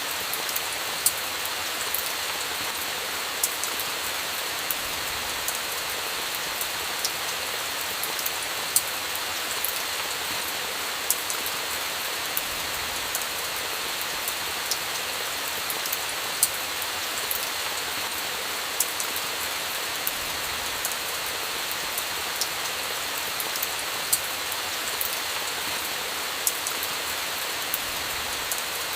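Steady rain with sharp, irregular pops and crackles from a campfire scattered through it.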